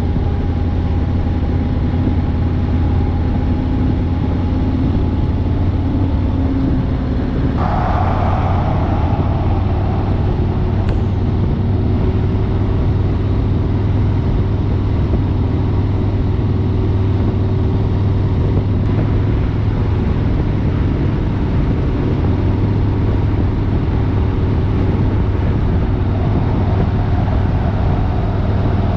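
Harley-Davidson Road King's V-twin engine running steadily at highway speed, with wind and road noise on the microphone. A short swell of noise about eight seconds in.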